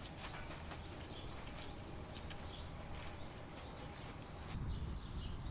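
A bird chirping over and over, about two short high chirps a second, over a faint low rumble of outdoor background noise.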